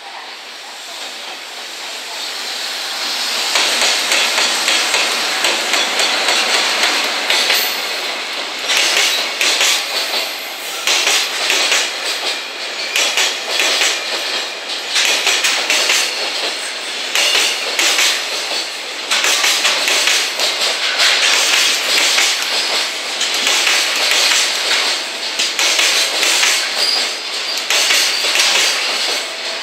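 JR Freight container train, an EF210 electric locomotive hauling a dead-in-tow EF66 and container wagons, passing close by. A rising rumble as the locomotives come in over the first few seconds gives way to the steady clatter of wagon wheels over the rail joints.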